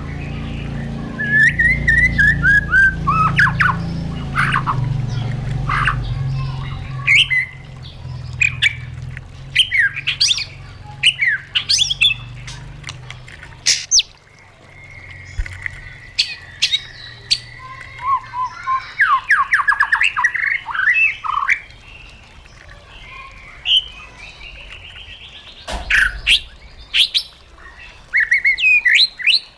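White-rumped shama singing a varied song of loud whistled phrases and sharp rising and falling notes, with a quick falling series early on and a rapid trill near the middle. A low steady hum sits under the first half and fades about halfway through.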